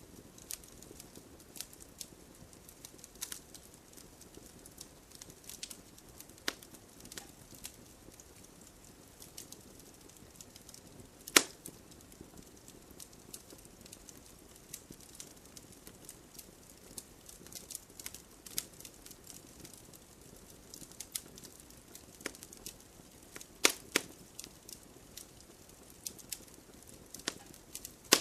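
Campfire of burning wood crackling steadily, with scattered sharp pops over a low hiss; one loud pop about eleven seconds in and a close pair of loud pops near the two-thirds mark.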